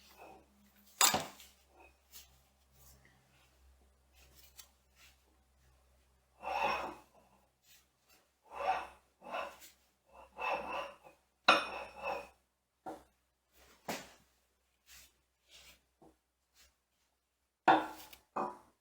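Intermittent knocks and clinks of metal parts and tools being handled during a machine teardown, with short rubbing or scraping sounds in between. The sharpest knocks come about a second in and again about halfway through.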